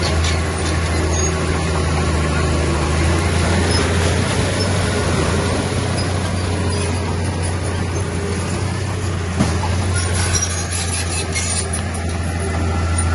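Heavy diesel earthmoving machinery running steadily with a deep drone, with a burst of sharp high metallic squeaks and clicks about ten seconds in.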